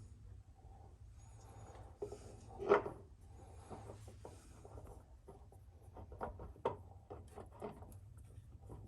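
Faint handling noise: rubbing with scattered light clicks and knocks, one louder knock about three seconds in and a run of small ticks near the end.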